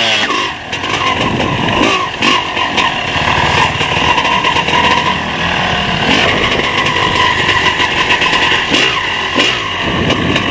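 Off-road motorcycle engine running loud, its pitch rising and falling as the throttle is opened and closed.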